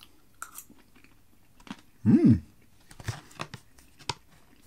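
A person chewing a mouthful of battered popcorn chicken, with small crunches and wet mouth clicks. About two seconds in comes a short closed-mouth hum that rises and falls in pitch, the loudest sound here.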